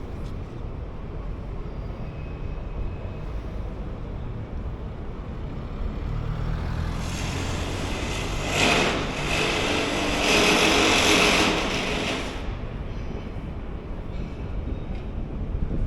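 Steady urban traffic rumble, with a large vehicle passing close by that builds up about halfway through, stays loud for several seconds with a high whine in it, then fades away.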